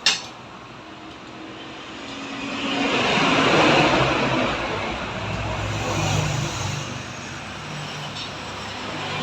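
A motor vehicle going past, its noise swelling to a peak about three to four seconds in and then fading, with a low engine hum lingering after it. A sharp click at the very start.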